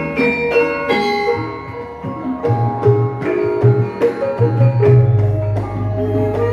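Javanese gamelan ensemble playing a gending: bronze mallet-struck metallophones ring out quick notes over hand drums, with low sustained tones underneath from about two and a half seconds in.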